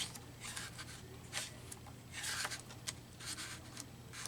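Paper pages of a book being handled and turned: a string of short, soft swishes, one longer about halfway through, over a faint steady low hum.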